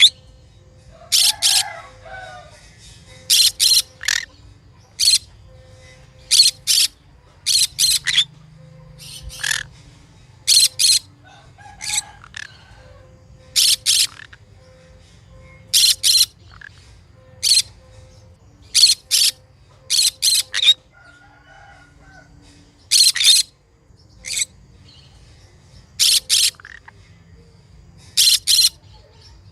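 Green conure calling: short, shrill calls, often in quick pairs or threes, repeating every second or two.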